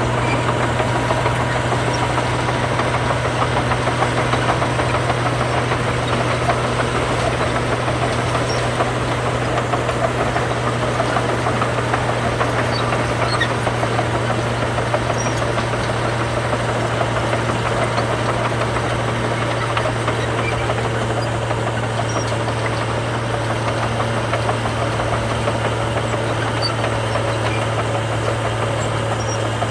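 Heavy diesel engine of earthmoving machinery running steadily with a constant low drone and no revving.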